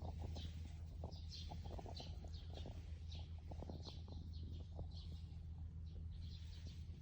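A small bird chirping over and over, about twice a second, with scattered light clicks over a steady low hum.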